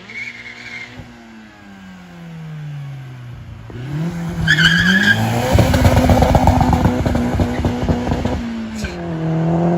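A car engine revs up and is held at high revs while its tyres spin in a burnout, with a short tyre squeal as the revs climb; the revs fall away about eight seconds in.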